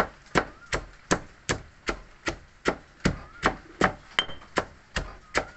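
Food being struck in a steady kitchen rhythm, about two and a half sharp strokes a second, as in chopping or pounding by hand.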